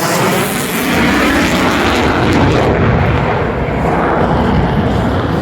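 F-35A fighter jet flying past, its single turbofan engine making a loud, continuous rumble. The high hiss fades about three seconds in while the deep rumble carries on.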